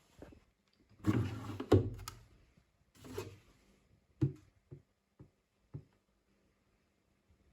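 Handling sounds: rustling and rubbing, then four or five short light knocks.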